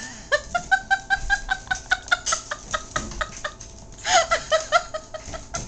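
Pet prairie dogs chirping in fast, even runs of short calls at one steady pitch, about eight a second, then a second, more uneven burst near the end.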